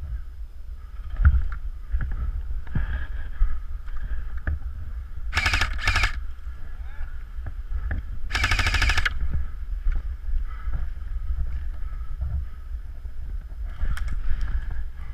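Airsoft gun firing full-auto: two short rapid bursts about five and a half seconds in, then a longer burst about three seconds later, over a steady low rumble.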